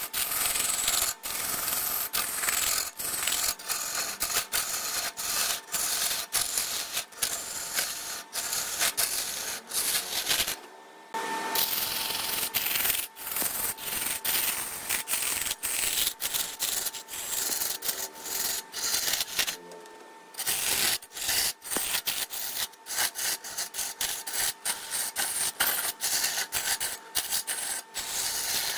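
Wood being worked against a turning lathe: a continuous dry rasping hiss, cut by many brief dropouts, with a faint steady whine beneath it. It pauses briefly twice, about 11 and 20 seconds in.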